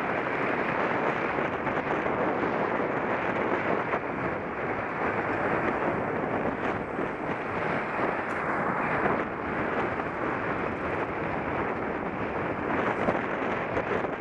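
Steady wind rush buffeting the microphone of a camera on a moving bicycle, with a dense, even roar and no distinct engine or tyre sound standing out.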